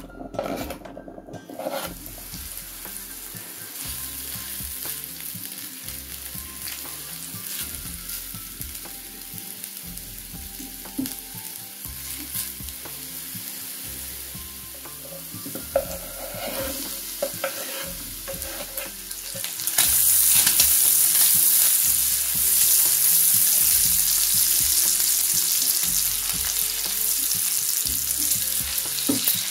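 Diced onions frying in hot oil in a pan: a steady sizzle with a few knocks and scrapes of stirring. About two-thirds of the way through, the sizzle grows much louder as diced bacon joins the onions.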